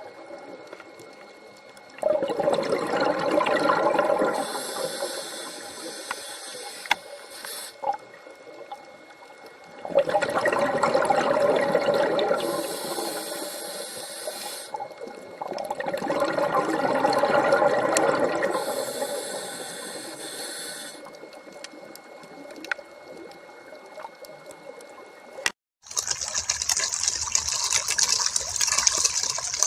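Rushing, gushing water that comes in three surges several seconds apart, each swelling and then fading. After a sudden break near the end, a brighter, hissier stream of water follows.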